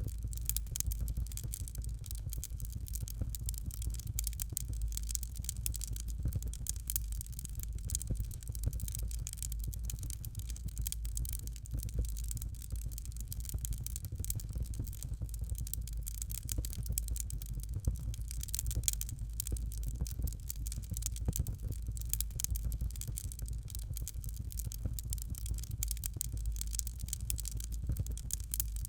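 Fireplace fire crackling steadily: dense small crackles and pops over a low, constant rumble of the flames.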